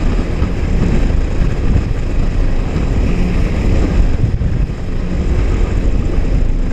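Honda jet ski's four-stroke engine running steadily at speed, mixed with rushing water and wind buffeting the microphone.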